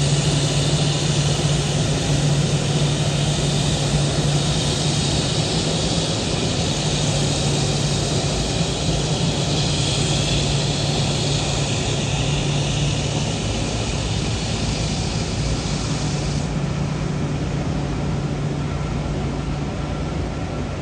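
Jet airliner engines running: a steady rushing noise over a low hum, whose higher hiss drops away suddenly about sixteen seconds in.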